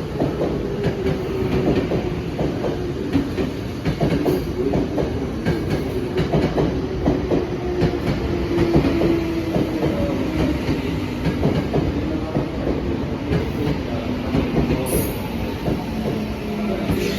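Tokyo Metro 15000 series electric train pulling out of the station, its wheels clattering over rail joints in a run of knocks, over a hum that slowly falls in pitch.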